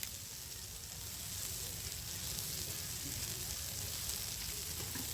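Porterhouse steak sizzling on the grate over a campfire: a steady hiss with faint ticks.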